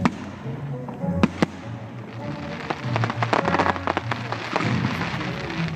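Fireworks going off at a display: a sharp bang at the start, two more just after a second in, then a dense spell of crackling about three to four and a half seconds in, over music playing.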